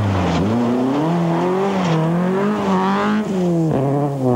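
Rally car engine driven hard on a gravel stage: the engine note climbs and falls as the driver accelerates and lifts, with a sudden drop in pitch about three seconds in, like a gear change. A hiss of gravel noise runs under it.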